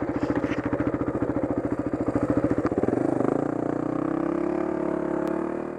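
Dirt bike engine running under way with a fast, even firing pulse; about three seconds in the pulses smooth into a steadier, slightly rising tone as the revs pick up.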